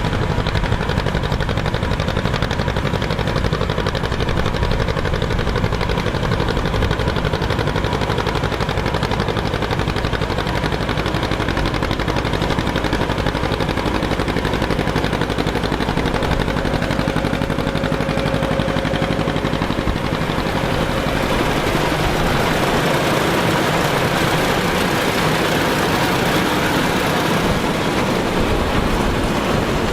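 Old farm machinery running steadily, an engine's low rumble under a dense mechanical clatter. About two-thirds of the way through the low rumble fades and a brighter hiss takes over.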